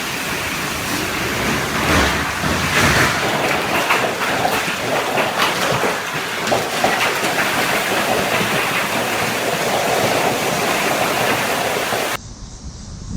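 Storm noise of heavy rain and wind on the microphone: a dense, loud hiss that surges and eases. It cuts off abruptly about twelve seconds in.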